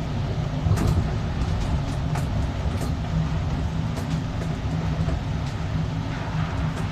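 Ride inside a moving city bus: a steady low engine and road rumble, with a few sharp rattles or clicks in the first four seconds.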